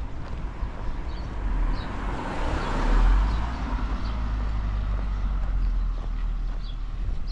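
A car passing by, its noise rising to a peak about three seconds in and then easing off, over a steady low rumble of wind on the microphone.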